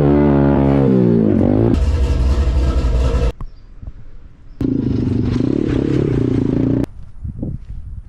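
SSR 125 automatic dirt bike's single-cylinder four-stroke engine revving loudly in two bursts, the first about three seconds long with its pitch rising and falling, the second about two seconds, with a short drop between them. The loud exhaust note fits the muffler not being connected to the exhaust.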